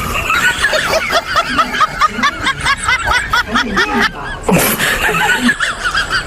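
High-pitched snickering laughter, a quick run of giggling notes that goes on throughout, with a brief pause about four seconds in.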